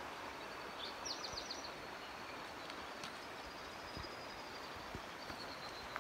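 A bird sings a quick run of about five high notes about a second in. Under it runs a steady outdoor rushing noise, and a thin high tone carries on afterwards.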